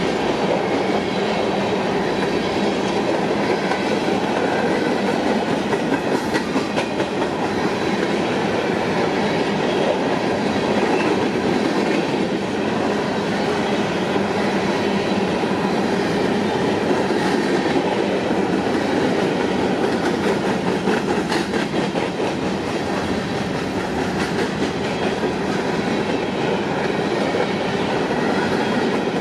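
Covered hopper cars of a freight grain train rolling steadily past close by: a continuous rumble and rattle of steel wheels on the rails, with scattered clicks as wheels cross rail joints.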